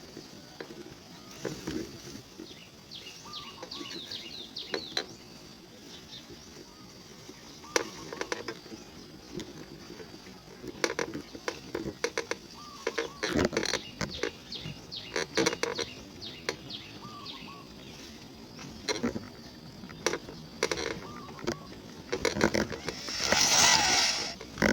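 Birds giving short chirps and calls again and again, with scattered clicks and a louder rustling burst near the end.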